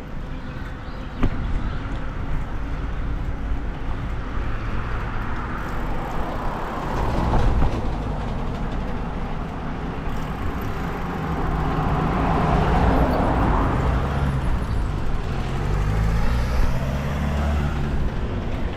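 Road traffic noise heard from a moving bicycle, with low rumble on the microphone throughout. The noise swells twice, about seven seconds in and again about twelve to fourteen seconds in, like vehicles passing. There is a single sharp knock about a second in.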